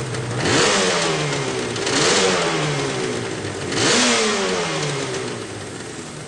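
Yamaha RZ500 two-stroke V4 engine revved three times. Each rev rises sharply and then falls back slowly.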